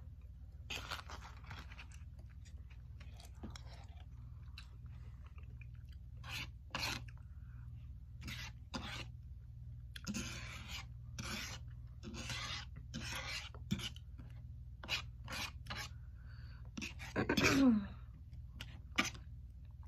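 Close-up mukbang eating sounds: a person chewing soft food with irregular wet mouth noises and smacks, a plastic fork scraping the plate now and then, and a brief voiced sound falling in pitch near the end.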